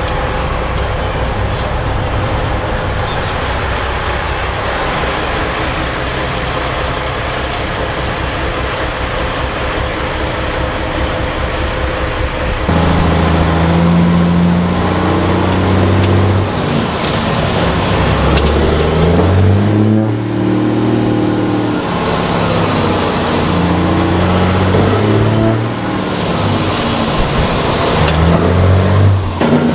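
Semi truck's diesel engine running steadily. About 13 seconds in it starts pulling hard, its pitch climbing and then dropping back in steps, several times, as it shifts up through the gears.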